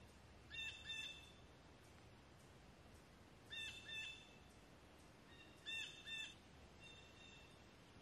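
A bird calling in quiet woodland: short two-note calls given three times, a couple of seconds apart, with a few fainter single notes between them over faint background hiss.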